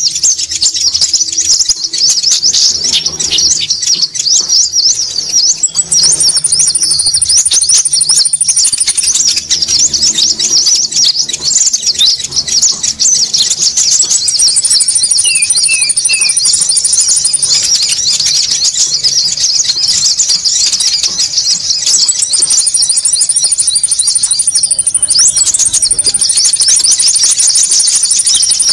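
Bird-lure recording of konin birds calling noisily: a dense, unbroken chatter of rapid high notes, with a thin, very high steady note coming in over it several times for a few seconds at a time.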